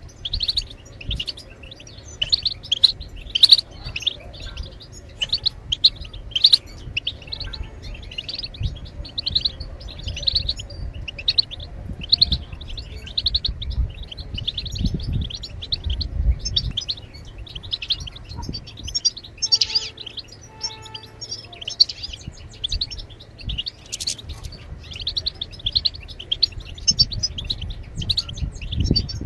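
European goldfinch twittering: a fast, unbroken run of short high chirps, several a second. A low rumble comes in about halfway through.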